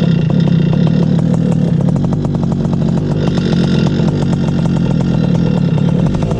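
Paramotor engine running steadily, with a fast, even firing rhythm and a strong low hum.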